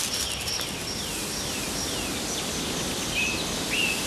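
Small forest birds calling: a run of short, falling chirps about two a second, then a few differently shaped, hooked calls near the end. Under them is a steady high thin tone and a soft background hiss.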